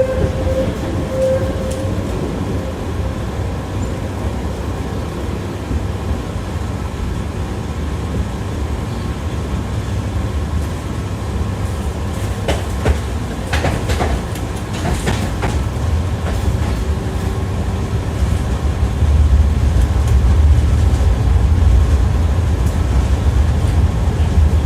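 Tram wheels rolling on the rails, heard from inside the car: a steady low rumble with a run of ringing clacks over rail joints about halfway through. The rumble grows louder near the end.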